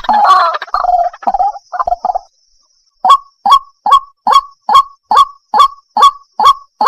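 White-breasted waterhen calls played as a lure recording. A loud, harsh, jumbled bout of calling lasts about two seconds, then after a brief pause comes a steady series of single notes, about two and a half a second.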